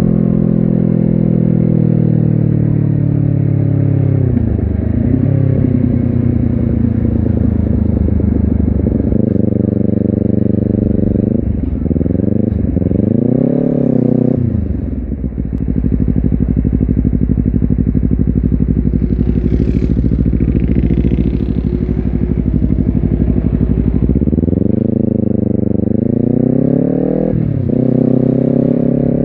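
Honda CBR250RR motorcycle engine and exhaust under way, revs rising and falling with several gear changes, each climb cut off by a sudden drop in pitch. In the middle it settles to a low steady run for several seconds, then pulls up through the revs again near the end.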